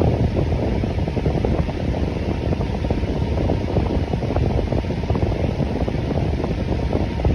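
Electric fan running steadily: an even, low air noise.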